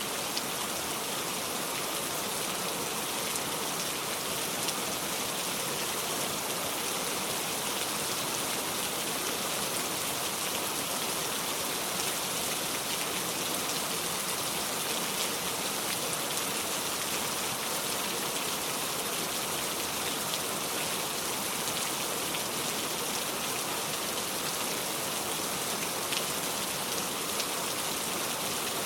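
Steady rainfall: an even, unbroken hiss of rain with scattered faint ticks of individual drops.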